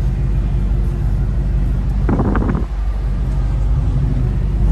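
A car engine idling steadily, deep and even, with a brief voice-like call about two seconds in.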